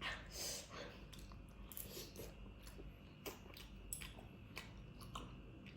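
Close-up wet chewing of a soft, chewy potato snack, with irregular sticky smacks and clicks of the mouth.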